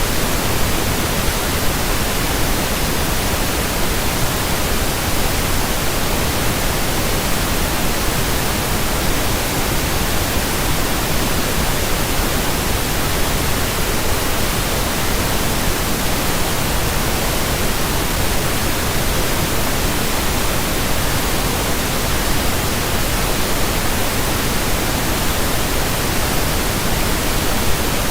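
Steady pink noise, an even hiss spread across all pitches that does not change.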